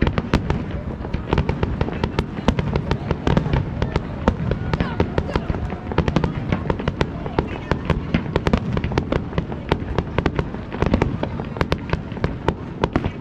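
Fireworks display: a dense, unbroken barrage of bangs and crackles, several a second, over a low rumble.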